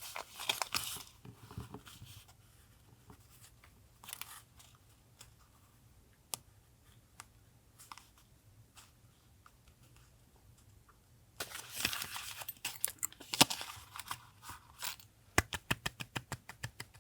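Paper being handled for a collage journal: rustling and crinkling with scattered light ticks. A denser burst of rustling comes about two-thirds of the way in, followed by a quick run of small sharp clicks near the end.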